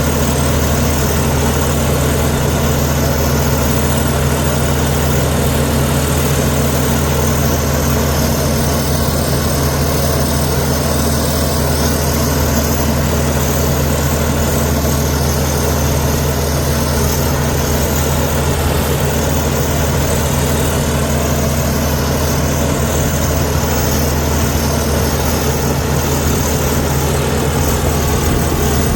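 Komatsu D61EX bulldozer's diesel engine running at a steady, unchanging pitch: a loud, deep, even drone.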